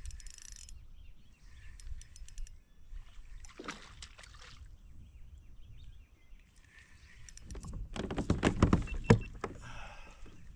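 Water splashing and knocking around a fishing kayak while a hooked bass is fought on an ultralight rod. A short burst comes about three and a half seconds in, and a louder, longer one about eight seconds in.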